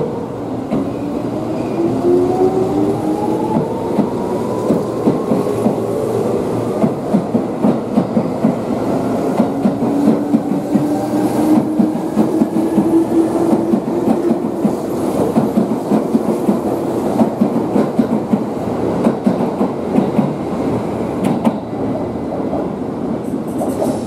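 Seibu 2000 series electric train pulling out and accelerating past, its motors whining upward in pitch over the first half while the wheels clack over the rail joints.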